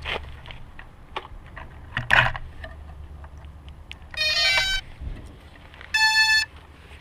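Quadcopter power-up beeps: a short run of stepping electronic tones, then about two seconds later one steady half-second beep, among scattered clicks and knocks.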